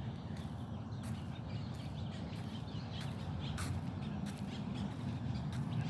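Outdoor ambience: birds chirping and calling over a low steady rumble, with scattered sharp ticks.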